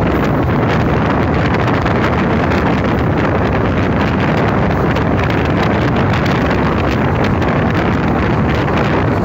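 Steady rush of wind buffeting a microphone held out of a fast-moving passenger train, mixed with the train's running noise.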